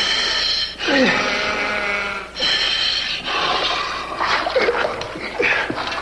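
A man gasping and moaning for breath in short strained sounds that slide down in pitch, over a steady low hum.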